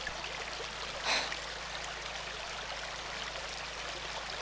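A stream rushing steadily over rocks, an even running-water noise, with one short louder burst of noise about a second in.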